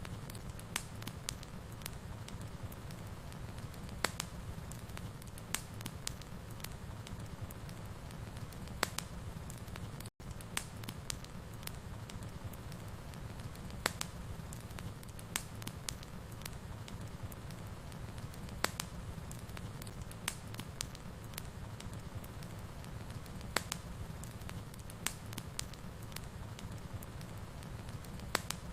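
Fireplace wood fire burning: a steady low rumble with irregular sharp crackles and pops, several times a second at most. The sound drops out for an instant about ten seconds in.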